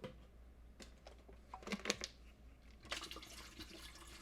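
Plastic water bottle crinkling, with a few sharp clicks and a little water splashing, as the last of a bottle of water is emptied into a steamer pot.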